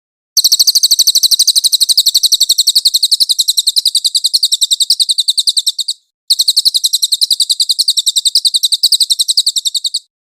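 Recorded cage-bird song for tutoring: a very rapid, evenly pulsed high trill of a dozen or more notes a second. It runs for about five and a half seconds, breaks off briefly and resumes for nearly four more, then stops abruptly.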